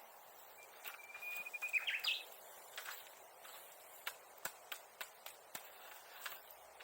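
Wood bonfire crackling, with sharp pops and snaps scattered through. About a second in, a bird gives one long whistled note that ends in a quick rising flourish.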